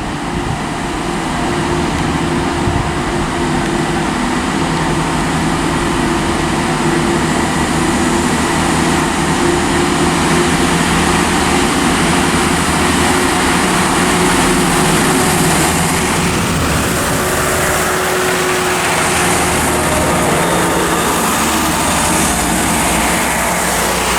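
Two coupled Class 165 Turbo diesel multiple units pulling away under power, their diesel engines giving a steady drone. The two units' engines sound strange and not in step with each other, which the spotter takes as a sign that something is wrong with them.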